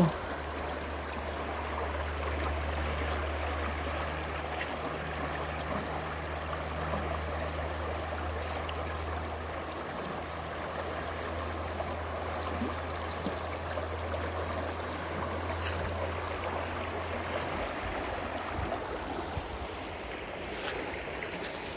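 Smith River water rushing over rocks and rapids, a steady even wash. A low steady rumble runs underneath until it drops away near the end.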